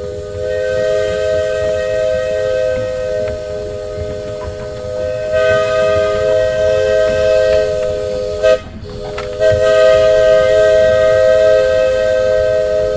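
Chime whistle of a 15-inch gauge steam locomotive blowing one long three-note chord, cut off briefly about eight and a half seconds in, then sounding again.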